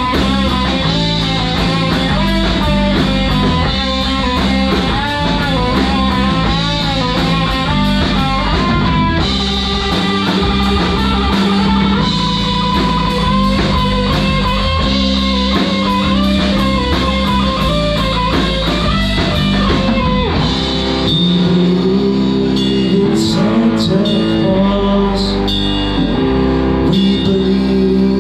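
Live rock band playing an instrumental break: a lead solo line over drums, bass and rhythm guitar, with steady hi-hat ticks. About twenty seconds in the arrangement changes and cymbal crashes come in.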